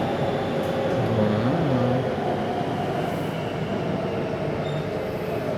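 Metro train running between stations, heard from inside the carriage: a steady rumble of wheels and running gear with faint whining tones over it.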